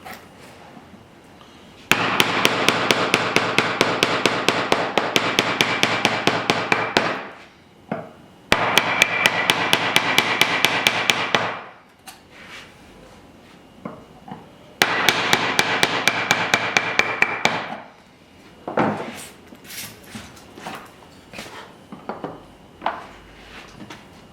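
Hammer rapidly tapping a chisel into wood to chop out waste for a lap joint, with a ringing metallic tone. There are three runs of quick, even strikes at about eight a second, each lasting a few seconds, followed by scattered lighter knocks.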